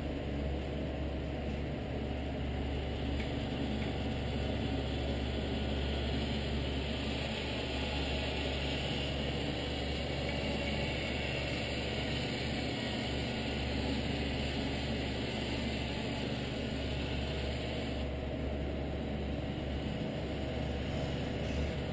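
A 1/14 scale radio-controlled Scania R620 timber truck running with a steady engine-like drone and a low hum, at an even level with no revving.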